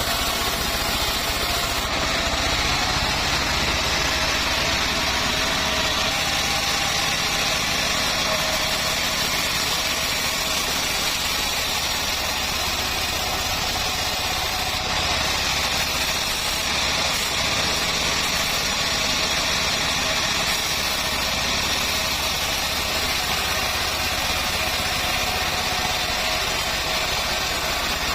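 Homemade bandsaw mill running steadily, a constant engine-driven machine noise with no breaks or changes in level.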